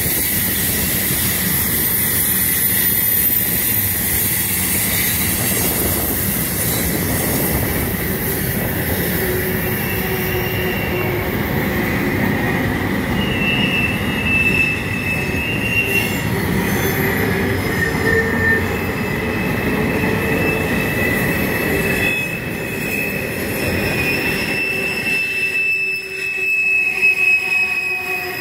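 Freight cars rolling by on a curve: a steady rumble of steel wheels on rail, with several high-pitched wheel squeals that come and go as the wheel flanges grind against the curved rail.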